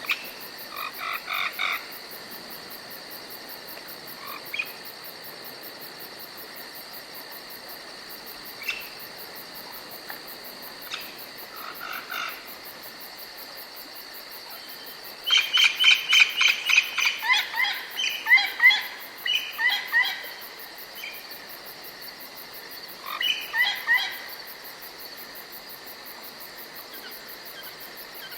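Forest ambience: a steady high drone of insects and crickets, broken by bursts of quick repeated chirping calls. The longest run of calls comes about halfway through.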